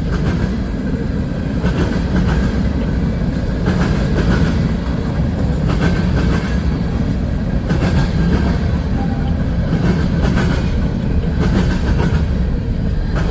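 Long CSX freight train's cars rolling past at speed: a steady loud rumble with irregular clacking of wheels over the rail joints.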